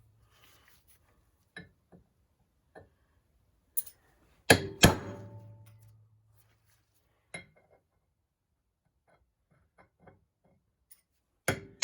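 Hammer striking a punch to stake the metal around a newly fitted engine part and hold it in place, each hard blow followed by a short metallic ring. A few light taps, then two hard blows close together about halfway through and two more near the end.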